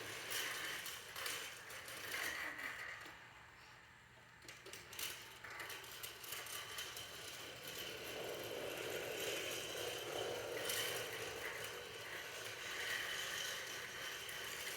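Light mechanical clicking and rattling, uneven and fairly quiet.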